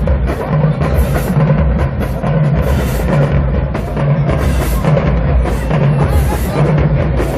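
Marching band playing, led by its percussion: a heavy, steady bass-drum beat with cymbal crashes every second or two over the sound of the band.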